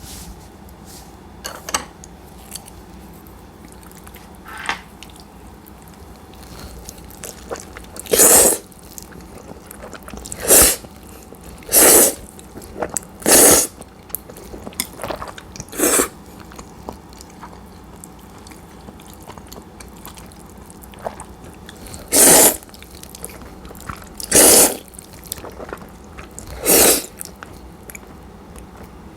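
Cold udon noodles being slurped in about eight loud, noisy bursts of roughly half a second each, with quieter chewing sounds in between.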